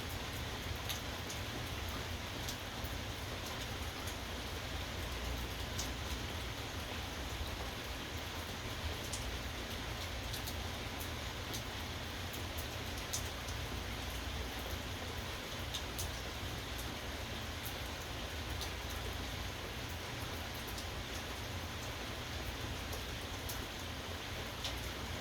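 Steady rain falling, with scattered sharp ticks of single drops striking close by over a low steady rumble.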